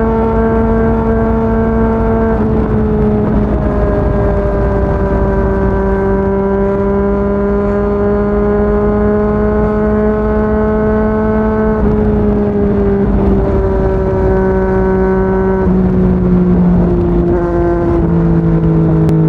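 Yamaha MT-09 three-cylinder engine with a Yoshimura R55 slip-on exhaust, running at a steady, high cruising speed. Its pitch eases down slightly a few times. Heavy wind rumble lies beneath the engine.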